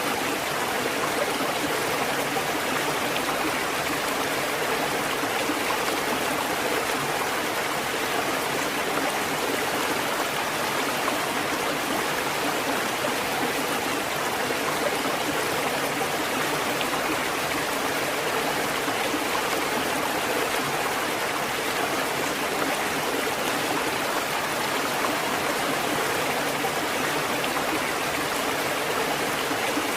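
Water fountain running: a steady, unbroken flow of splashing water.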